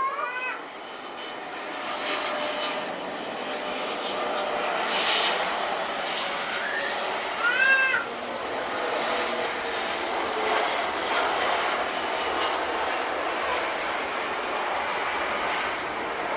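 Steady rushing jet airliner engine noise that builds over the first two seconds and then holds. Short high, arching cries cut through at the start and again about eight seconds in.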